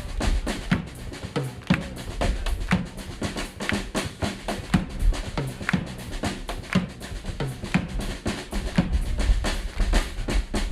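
A jazz big band's drum kit playing alone: snare, bass drum and cymbal strokes in a busy, even rhythm, with no horns sounding.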